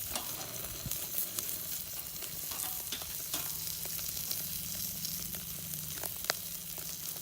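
Meat sizzling over a charcoal fire: a steady frying hiss with scattered small crackles and one sharp pop about six seconds in.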